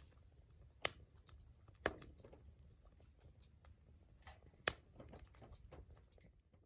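Wood fire crackling, with a steady low rumble of flame, scattered small ticks and three sharp pops, at about one, two and five seconds in.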